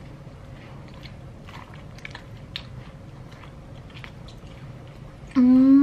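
Close-up chewing and biting of a crisp fried snack, with faint scattered crunches and clicks. Near the end a loud, drawn-out voice-like tone starts and slowly falls in pitch.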